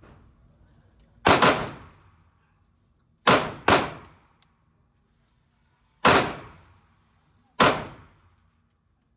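Gunshots at an indoor shooting range, five single shots spaced irregularly, two of them in quick succession about three seconds in. Each shot is sharp and loud and rings out in a short echoing tail.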